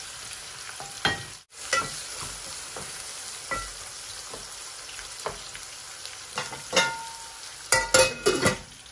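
Onions, garlic and ginger sizzling in oil in a stainless steel pot, with scattered taps of a utensil on the metal. Near the end a stainless steel lid clanks and rings several times as it is set on the pot.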